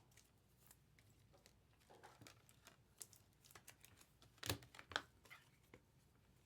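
Near silence, with scattered faint clicks and light rustling, and two sharper clicks about four and a half and five seconds in.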